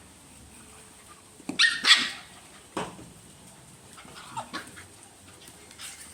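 Dogs barking in short, sharp calls: a loud cluster about one and a half to two seconds in, another near three seconds, then a few fainter ones.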